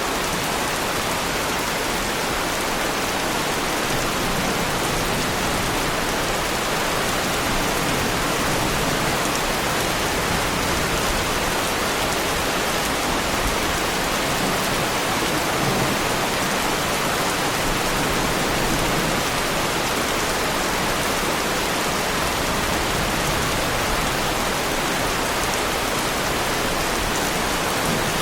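Heavy rain pouring steadily, a dense even hiss with no single drops or thunder standing out.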